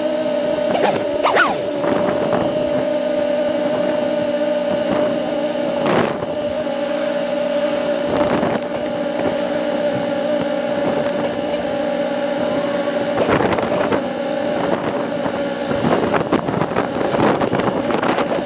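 Honda motorcycle engine idling steadily while stopped, with a few short knocks and clicks, more of them near the end.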